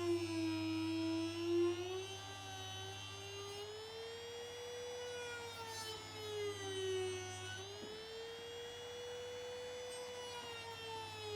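Small high-speed electric motor whining, its pitch sagging and recovering slowly several times as the load on it changes.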